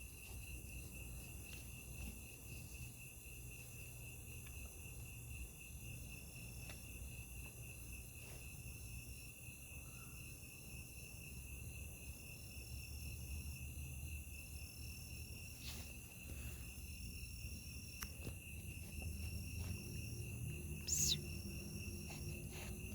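A chorus of insects, crickets by their sound, trilling steadily in a fast, even pulse. A brief high whistling chirp cuts in near the end.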